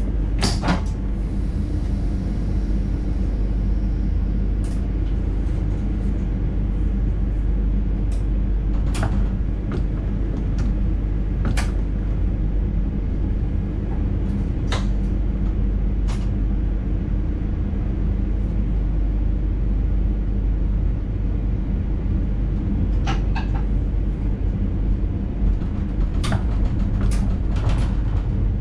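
Cab of an NS intercity train running: a steady low rumble and hum, with sharp clicks and knocks every few seconds at irregular spacing.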